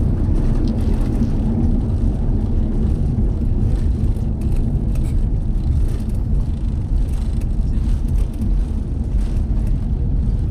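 Cabin noise inside an Airbus A350-900 airliner after touchdown: a steady low rumble.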